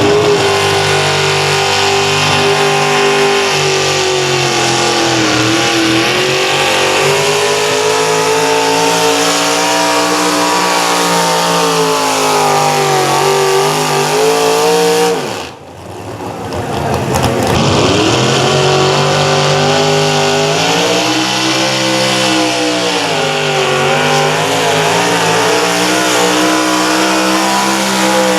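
Competition pulling tractor's engine running hard under load, its pitch wavering up and down as it works. About halfway through the sound drops away briefly and then comes back at full strength.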